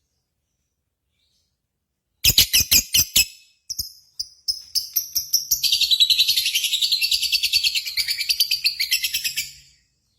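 Lovebird song: after about two seconds of silence, a quick run of sharp high chirps, a few single chirps, then a long fast chattering trill of about five seconds that stops shortly before the end.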